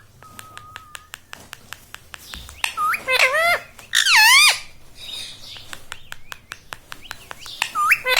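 Pet parrot calling: a thin held whistle near the start, then loud wavering calls twice a few seconds in and once more at the end, over many small clicks.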